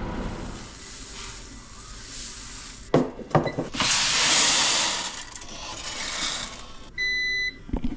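A grain moisture tester being handled and run on a wheat sample: a few knocks and clicks about three seconds in, then a rushing hiss for about a second and a half. Near the end comes a single half-second electronic beep, the tester signalling that its moisture reading is ready.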